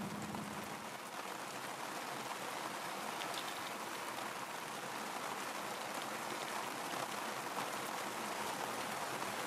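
Steady hiss of rain, with an occasional faint tick of drops.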